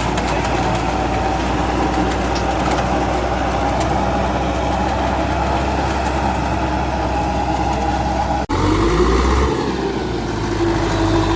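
Tractor engine running steadily while driving a super seeder. About eight and a half seconds in the sound cuts off abruptly and resumes as a different engine drone, with a whine that glides up and then holds steady.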